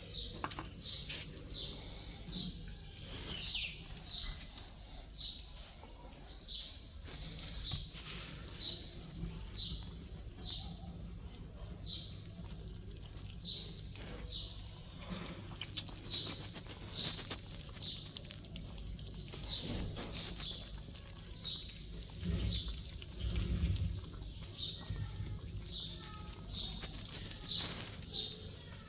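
A bird chirping over and over, short high chirps coming a little more than once a second.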